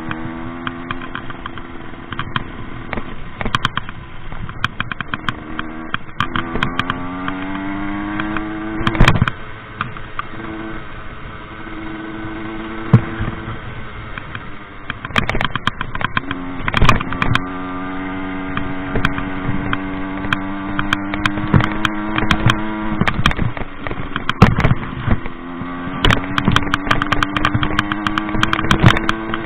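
Rieju MRT 50 two-stroke moped engine being ridden hard off-road, its revs climbing, dropping and climbing again several times, with a steadier stretch in the middle. Many sharp knocks and clatter run through it, loudest about 9 and 17 seconds in.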